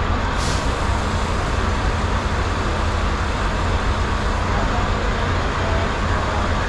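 Semi-truck's diesel engine running with a steady low rumble, with a brief hiss about half a second in.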